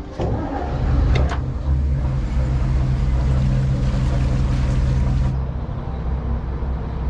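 A Dutch barge's engine running steadily while under way, with a rushing noise over it that eases off about five seconds in. Two sharp knocks sound about a second in.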